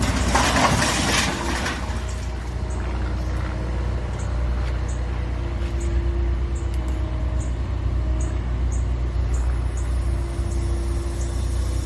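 A steady low vehicle rumble, with a loud rush of hiss in the first two seconds and faint regular high ticks about twice a second.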